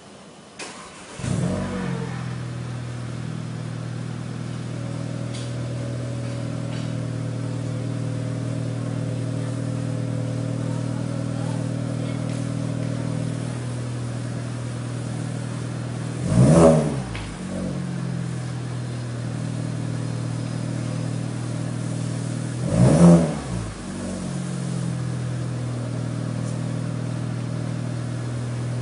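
Twin-turbo car engine breathing through a Supersprint stainless steel quad-pipe exhaust: it starts about a second in, settles to a steady idle, and is blipped twice with quick revs that rise and fall back to idle.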